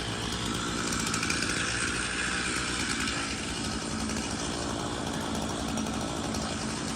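Gas chainsaw running steadily.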